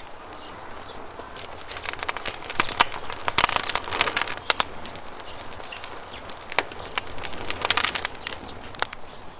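Wood fire crackling, with a rapid run of sharp pops and snaps that thickens about a second and a half in and eases off near the end, over a steady background hiss.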